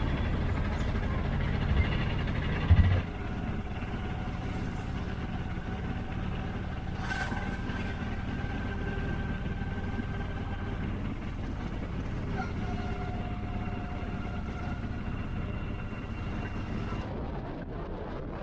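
A vehicle's engine running steadily, with a drop in loudness about three seconds in.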